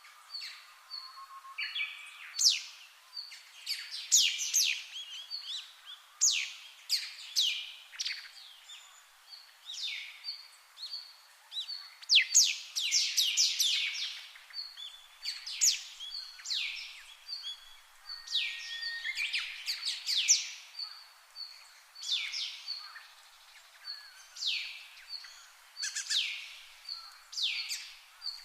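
Birds chirping throughout: many quick, steeply falling chirps, often in fast runs, mixed with short level piping notes repeated between them.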